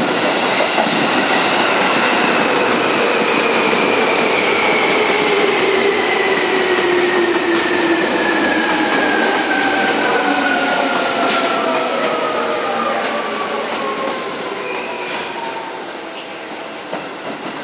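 Yellow Seibu electric commuter train coming in along the platform, with rail noise and a whine that falls slowly and steadily in pitch as it slows. There are a few sharp clicks in the second half, and the noise eases off near the end.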